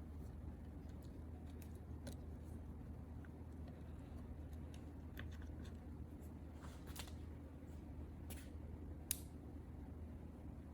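Quiet handling of small parts: a few faint clicks and taps, with one sharper click about nine seconds in, over a steady low hum.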